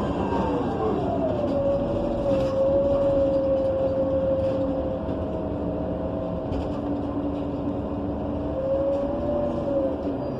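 Ride inside a 2015 Gillig BRT Plus transit bus under way, with its Cummins Westport ISL G natural-gas engine and Allison B300R transmission running over road rumble. A drivetrain whine falls in pitch over the first two seconds as the bus slows, holds steady while it cruises, then rises and falls briefly near the end.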